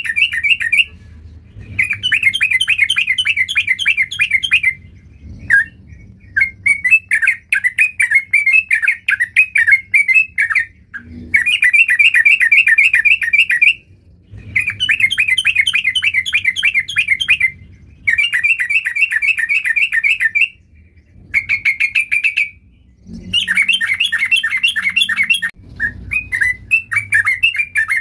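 Yellow-vented bulbul (trucukan) singing, a run of quick, bubbly chattering phrases each a couple of seconds long, with short pauses between them.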